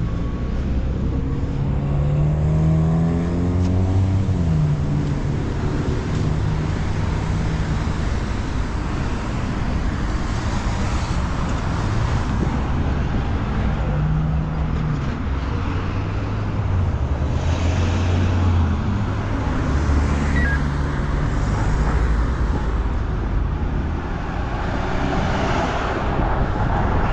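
Road traffic: vehicle engines running and tyre noise, with one engine rising in pitch as it speeds up in the first few seconds.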